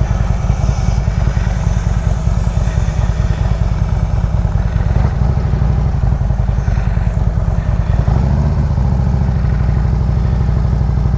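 Harley-Davidson Road Glide's V-twin engine and exhaust running while riding, a steady low pulsing note; about eight seconds in the note evens out and holds steadier.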